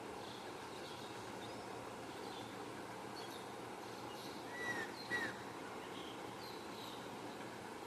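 Birds calling: scattered short high chirps over a steady background hiss, with two louder short arched calls a little past the middle.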